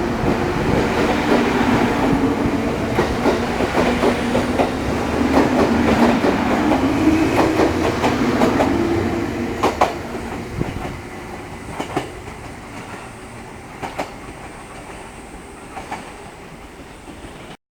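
JR Kyushu 783-series electric train heard from inside a motor car, running with a steady hum, then slowing to a stop: the running noise dies away from about halfway through while single wheel clacks over rail joints come further and further apart. The sound cuts off abruptly near the end.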